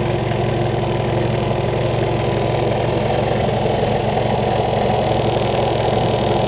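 Air compressor running steadily, with a fast even pulsing, as it reinflates a freshly plugged tyre.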